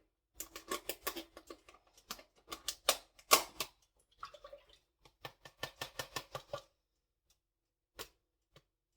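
A run of sharp clicks and light clattering of cookware being handled as a skillet and its oil are set up on the stove. Near the middle comes a quick, evenly spaced string of about eight clicks, and one last knock follows near the end.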